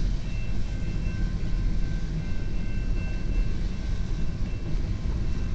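Long CN freight train's cars rolling past a crossing, a steady low rumble with faint high tones that come and go.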